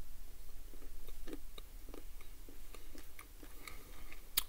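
Chewing a piece of Toblerone chocolate with the mouth: irregular soft chewing sounds and small clicks, with one sharper click near the end.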